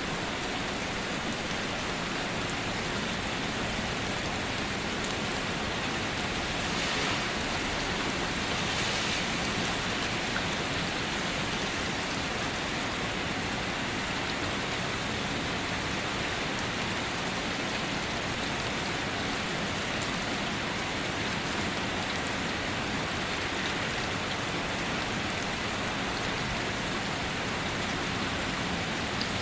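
Steady rain falling, an even rushing patter of drops on surfaces, swelling slightly for a moment twice.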